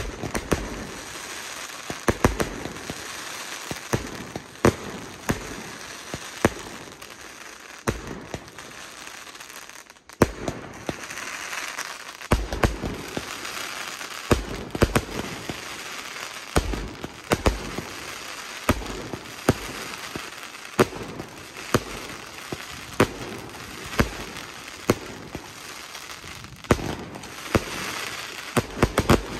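Fireworks display: aerial shells bursting with sharp bangs, about one or two a second, over a steady crackle from crackling stars. There is a brief lull about ten seconds in before the bangs resume.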